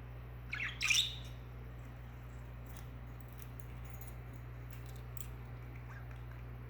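Pet budgerigar giving one short, loud chirp about a second in, followed by faint scattered ticks over a steady low hum.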